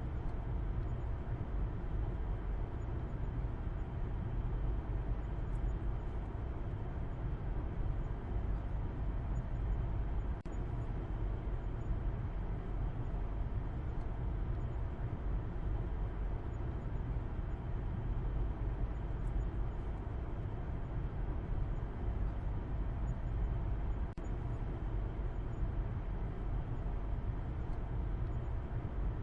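Steady low rumble of a car driving, an even mix of road and engine noise heavy in the bass, with two brief dips in level.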